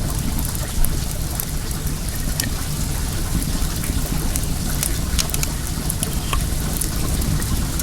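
Wood bonfire crackling with scattered sharp pops over the steady rush of flowing well water.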